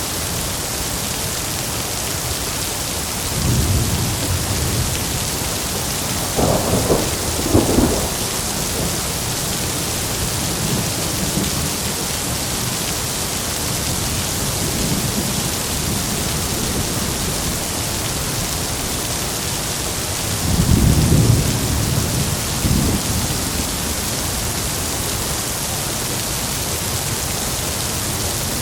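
Heavy rain hissing steadily, with thunder rumbling three times: about 3 seconds in, a sharper crackling peal around 7 seconds, and a longer rumble about 21 seconds in.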